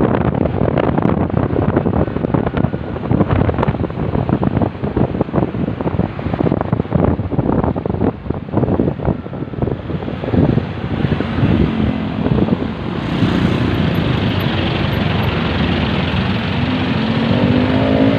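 Motorcycle ride: wind buffeting the rider's microphone, with the engine's note coming through in the second half and rising near the end as it speeds up.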